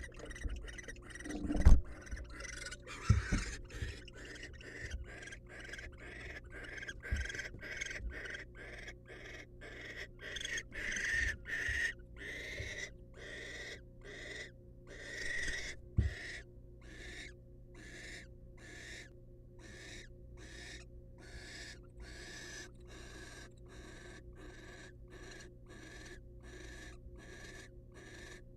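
Barn owl calling in a long run of short, rasping calls repeated evenly at about two a second, the excited calling of a female with a male nearby. A few low thumps come in the first few seconds and once more about midway.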